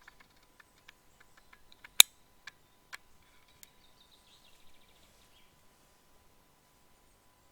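A single air rifle shot about two seconds in, one sharp crack, followed by two fainter clicks, among small scattered clicks.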